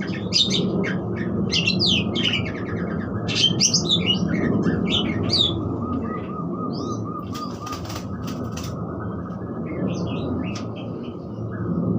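Budgerigars chattering: quick high chirps and warbles, busy over the first half and sparser later, with a few sharp clicks a little past the middle.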